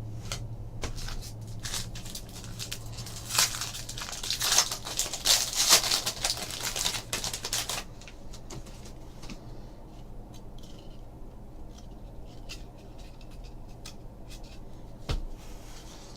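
A foil trading-card pack wrapper crinkling and tearing open for a few seconds in the middle, with scattered light clicks and taps of cards being handled before and after.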